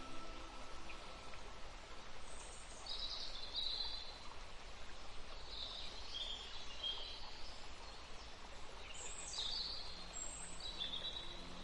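Wild birds chirping in short bursts of high calls, three or four clusters a few seconds apart, over a steady outdoor background hiss.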